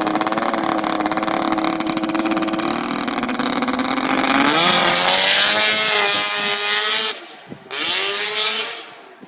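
Straight-piped Ski-Doo Mach 1 snowmobile's two-stroke engine running loud and steady. About halfway through it revs up, cuts off suddenly, is blipped once more and falls back down.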